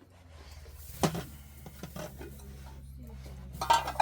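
Metal cookware clattering: a single sharp knock about a second in, then a quick run of clanks and clinks near the end that ring briefly, over a steady low hum.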